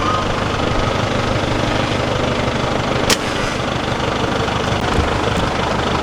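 Car engine running with a steady low rumble, and a single sharp click about halfway through.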